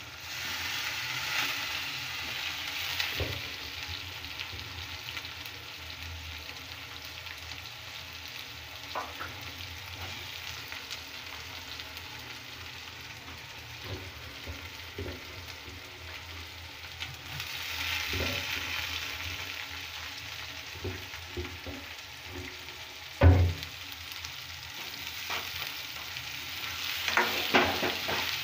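Soya chunks frying in hot oil in a kadhai, a steady sizzle with a spatula stirring and scraping through them, the sizzle swelling at the start and again partway through. Scattered knocks of the spatula on the pan, with one sharp, loud knock about 23 seconds in.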